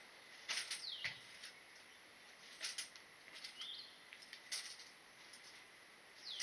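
Faint bird calls: two short falling whistles and a brief chirp, over a few faint sharp clicks.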